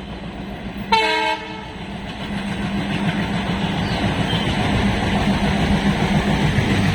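Diesel locomotive sounding one short horn blast about a second in, then its engine and train running louder and louder as it approaches.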